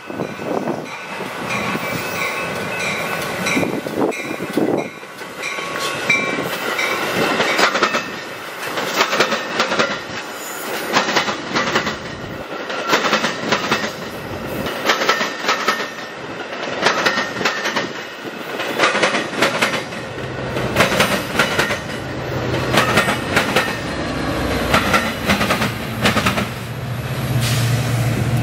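Metra commuter train of bilevel gallery coaches passing at speed, its wheels clicking rhythmically over the rail joints car after car. A low steady locomotive hum builds in near the end.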